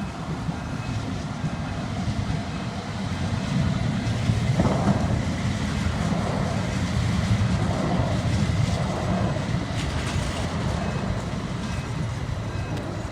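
Light-rail tram running past on the track over the level crossing. It is a steady rumble that grows louder about four seconds in and eases off again after about ten seconds.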